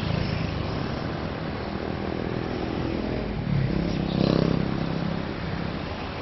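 An engine running steadily with a low rumble, swelling briefly about four seconds in.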